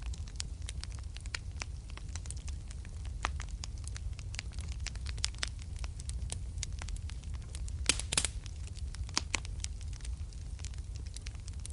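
Wood fire crackling in a fireplace: a steady low rumble under many sharp, irregular pops and snaps, with a cluster of louder pops about eight seconds in.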